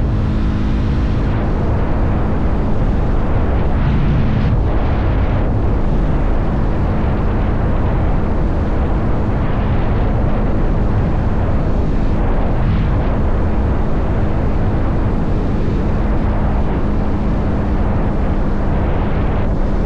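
Motorcycle riding at a steady speed: a constant engine hum under heavy wind rush buffeting the microphone.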